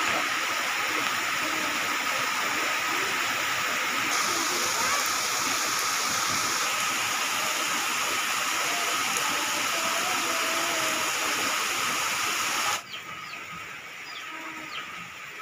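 Heavy tropical rain pouring down in a dense, steady hiss. Near the end it drops abruptly to a quieter rain sound.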